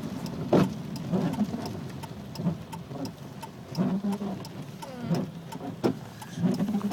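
Inside a car driving in heavy rain: windshield wipers sweeping rhythmically, about once every second and a half, with scattered clicks over steady engine and road noise.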